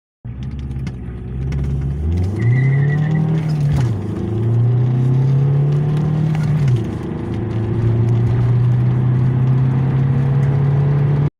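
Volkswagen Polo Mk3 (6N) four-cylinder engine accelerating hard from a standstill. The revs climb, fall at a gear change about four seconds in, climb again, fall at a second change about seven seconds in, then rise slowly in the next gear.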